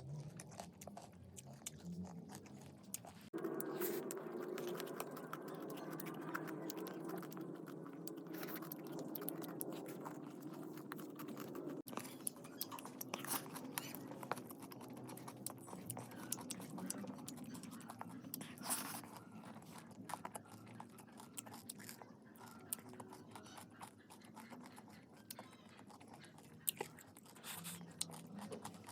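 Close-up chewing and crunching of chatpate, the spicy puffed-rice snack, with many sharp little crunches and mouth clicks.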